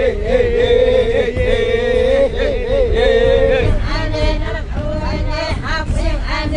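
Voices chanting: one voice holds a long, wavering note for about three and a half seconds, then several voices sing short overlapping phrases.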